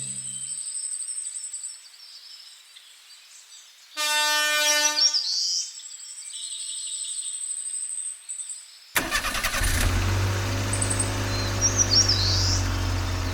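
Birds calling and chirping, with a short ringing tone about four seconds in. From about nine seconds a loud, low, steady rumbling noise takes over.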